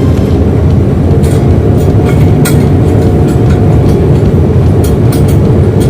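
A ship's engine running steadily: a loud, continuous low rumble, with a few short clicks and knocks over it.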